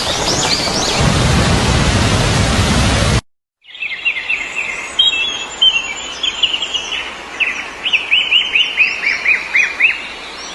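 Heavy rain hissing, with a few bird chirps over it, stops abruptly about three seconds in. After a brief gap, birds sing in quick runs of short chirps that fall in pitch.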